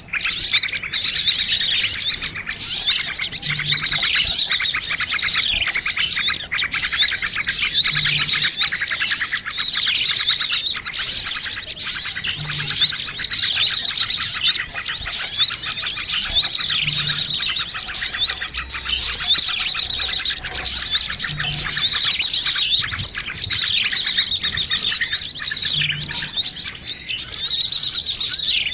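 Bird-lure recording of many small birds chirping and twittering at once in a dense, unbroken chorus of rapid high trills and chirps, a combined call mix meant to draw small birds in.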